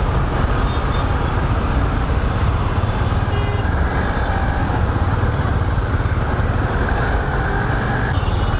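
Bajaj Dominar 400's single-cylinder engine running steadily while riding in traffic, under a steady rush of wind on the microphone.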